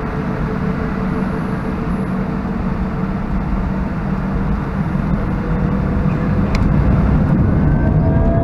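Cabin noise of an Airbus A319-131 in flight, heard from a window seat: the steady rumble and rush of the IAE V2500 engines and the airflow, with a steady hum. Near the end a higher engine tone rises in and the noise grows a little louder.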